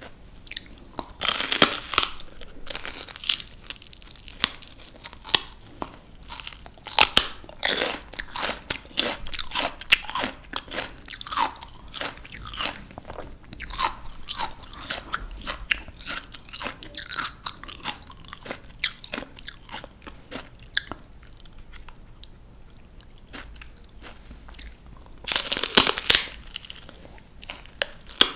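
A person biting into crisp raw vegetables and chewing them with loud, crisp crunches close to the microphone. There is one big bite about a second in and another near the end, with steady crunchy chewing between them.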